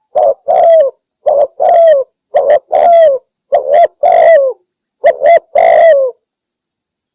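Spotted dove (derkuku) cooing loudly: repeated phrases of a short coo followed by a longer coo that falls in pitch at the end, five phrases in all, the last with two short notes before the long one; it stops about six seconds in.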